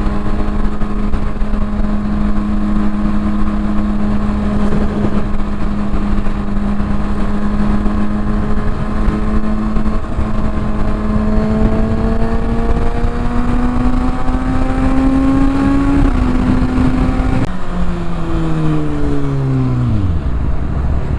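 Kawasaki ZX-6R inline-four with a Yoshimura exhaust, ridden under wind noise on the microphone. The engine holds a steady pitch for about ten seconds, rises gradually as the bike accelerates, then drops steeply about three-quarters of the way through as it slows.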